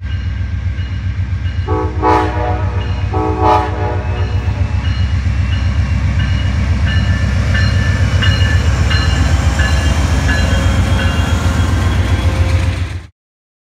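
Amtrak GE Genesis diesel locomotive passing close with a loud, steady low engine rumble, sounding its multi-tone chord horn in two short blasts about a second and a half apart near the start. The passenger coaches then roll past with wheel clatter on the rails, and the sound cuts off abruptly just before the end.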